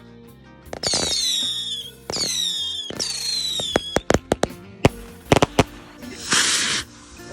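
Fireworks over background music: three falling whistles in the first few seconds, then a quick run of sharp cracks and bangs, and a short hissing burst near the end.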